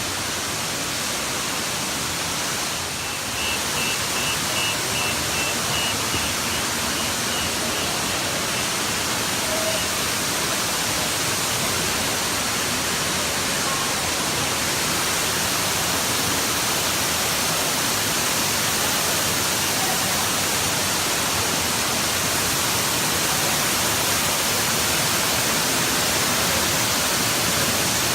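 Waterfall running, a steady rushing hiss of falling water.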